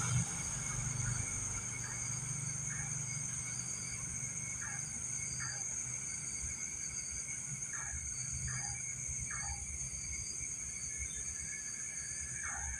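Night insects trilling steadily in several high-pitched tones, with short falling chirps every second or so, some in pairs.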